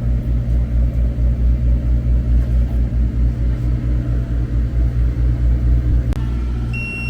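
Steady low engine rumble, typical of a food truck's generator, with fast uneven pulsing. About six seconds in the pulsing drops away, and a high electronic beep starts near the end, the signal that the order is ready.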